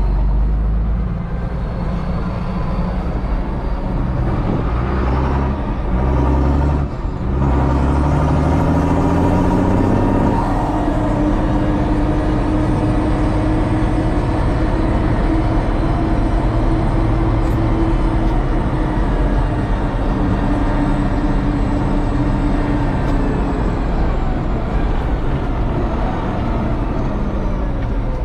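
Same Titan 160 tractor engine running, its pitch climbing steadily between about five and ten seconds in, broken by a short drop near seven seconds, then holding a steady speed and easing off slightly near the end.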